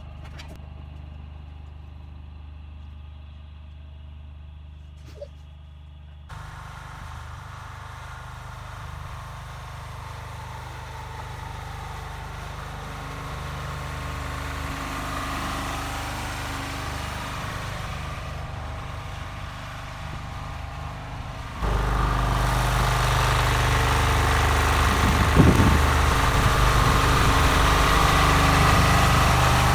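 An engine running steadily. It shifts abruptly about six seconds in and again, louder, about 22 seconds in, with a short thump a few seconds later.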